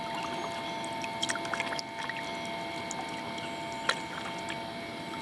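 Water splashing and trickling around a kayak as it is paddled in to the shore, with a few light knocks and one sharper click about four seconds in.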